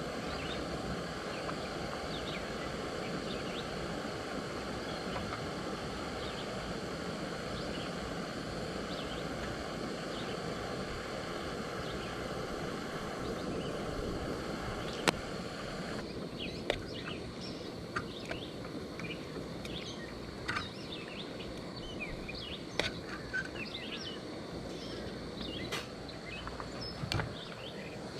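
Steady outdoor background noise with birds chirping now and then. From about halfway through, a few sharp clicks or snaps sound at irregular intervals.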